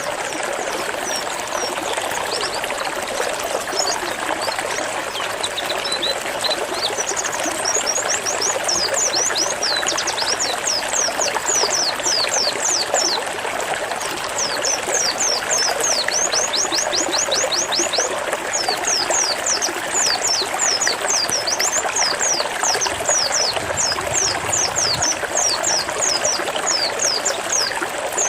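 A white-eye (pleci) singing its 'zipper' song: rapid runs of short, sharply falling high notes, about five a second, sparse at first and then steady from about a third of the way in. Running water trickles steadily underneath.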